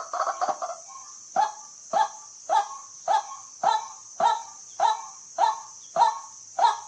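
White-breasted waterhen calling: a fast chatter of calls in the first second, then a pause and a monotonous series of short 'kwak' calls repeated evenly about twice a second. A steady high hiss runs behind.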